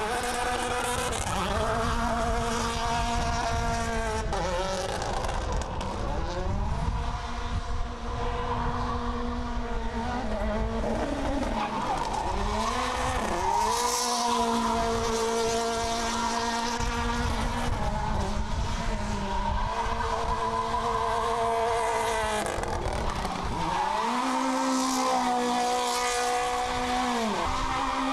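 MINI John Cooper Works WRC rally car engine being driven hard. It revs up, holds high revs for a few seconds, then drops off as the driver lifts or shifts, about five times over.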